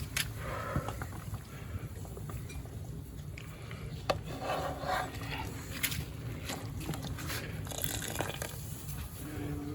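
Broth sloshing and splashing as cooked chicken is handled in a pot, with a few sharp knocks over a steady low rumble.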